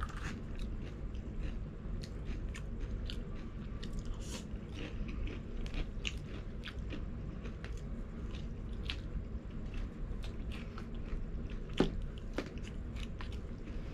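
Close-up eating sounds: chewing and crunching crispy fried chicken, a string of short crisp crunches. About twelve seconds in comes a louder crunchy bite as spicy fries go into the mouth. A low, steady hum runs underneath.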